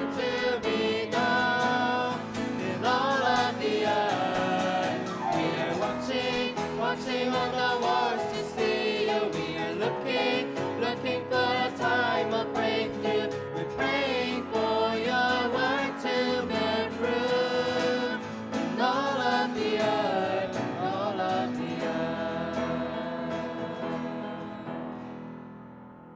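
Choir singing a gospel praise song, ending on long held notes that fade out over the last few seconds.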